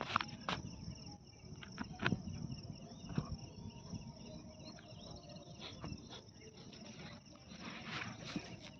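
Insects chirping in a steady, high continuous chorus, with scattered short clicks and knocks underneath.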